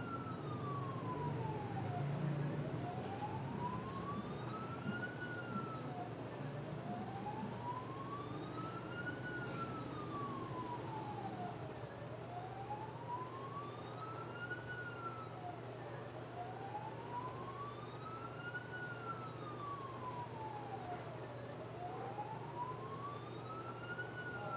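Emergency vehicle siren wailing, one tone rising and falling slowly, a full cycle roughly every five seconds, over a steady low hum.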